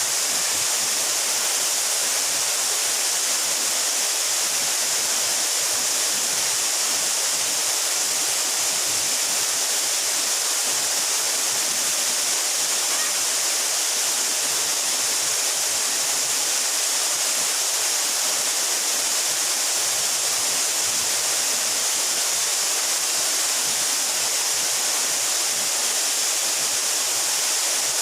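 A mountain waterfall about 12 metres high, its water falling and splashing in a steady, unbroken rush with a strong high hiss.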